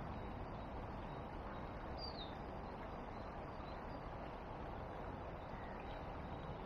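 Steady outdoor background noise with a small bird calling faintly: a short falling chirp about two seconds in, followed by a few quieter chirps.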